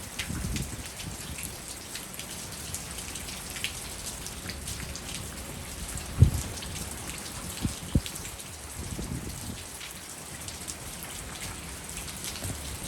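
Heavy rain falling steadily, with two sharp low thumps about six and eight seconds in.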